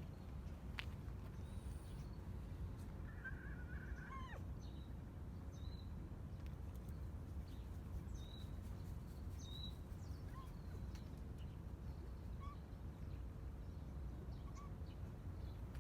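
Outdoor ambience with a steady low rumble and scattered short, high bird chirps. One louder animal call, crow-like, comes about three seconds in and ends in a falling glide.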